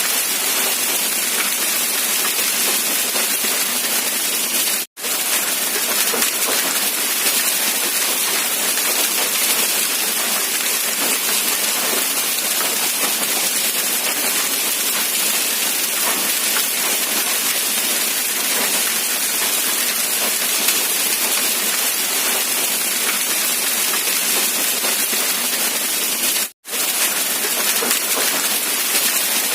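Steady rainfall, a dense even hiss of drops, that cuts out to silence for an instant twice, about 5 seconds in and again near the end.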